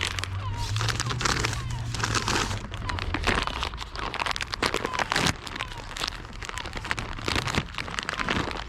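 Close rustling and crunching with many irregular crackles, the sound of handling close to the microphone.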